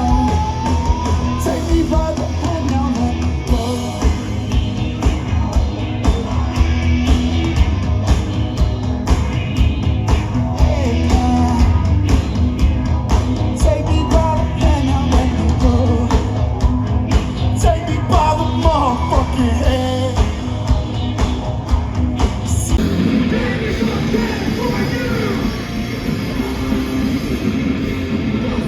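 Heavy rock band playing loudly with fast, dense drumming and sung and yelled vocals. About three-quarters of the way through, the drumming thins out.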